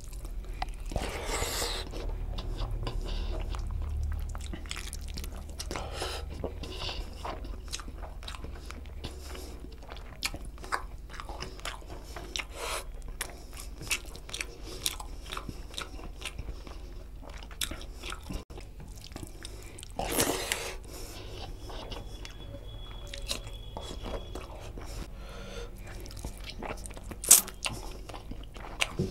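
Close-miked chewing and wet mouth smacks of a person eating rice and chicken curry by hand, with many small clicks throughout. A sharp click near the end is the loudest sound.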